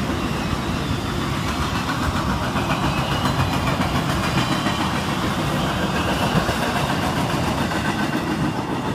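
A circus train of flatcars carrying trailers rolls past, making a steady rumble and rattle of steel wheels on the rails. It tapers slightly as the last car goes by near the end.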